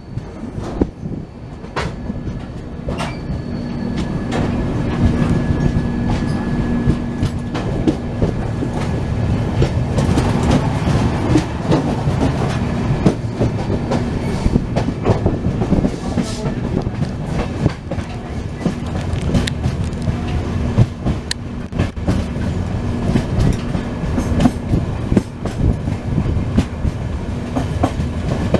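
Passenger express train running, heard from on board: wheels clattering over rail joints in a dense, irregular clickety-clack over a steady rumble, growing louder over the first few seconds.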